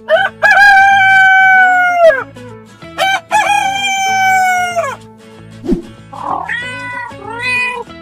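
Rooster crowing twice, each a long cock-a-doodle-doo held steady and then dropping off at the end. Near the end, a cat meows twice. A steady background music loop runs underneath.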